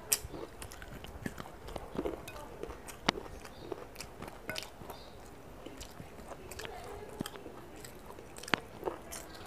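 Close-miked eating sounds: chewing and wet mouth noises while fingers work chicken in gravy, with a few sharp clicks and smacks, the loudest about three seconds in and near the end.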